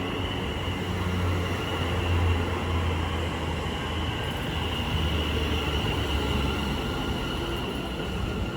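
Greater Anglia Class 720 electric multiple unit arriving at the platform. It makes a steady low hum with a high, even whine over it, and the hum fades near the end.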